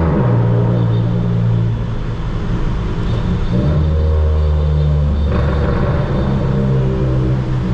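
Stage 2 tuned Volkswagen Polo GTS with a sports exhaust, its 1.4 turbocharged four-cylinder engine running loud through the exhaust while driving. Its pitch steps down and back up several times as the car shifts gears and the throttle changes.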